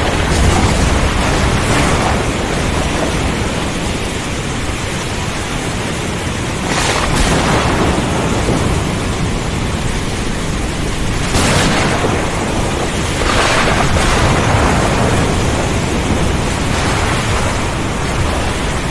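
Thunderstorm: heavy rain and strong wind as a dense, steady rush, with deep rumbling and several brief swells every few seconds.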